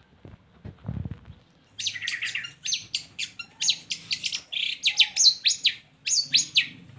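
Long-tailed shrike (cendet) singing a fast, varied run of sharp, sweeping chattering notes that begins about two seconds in. A short low rumble comes about a second in, before the song starts.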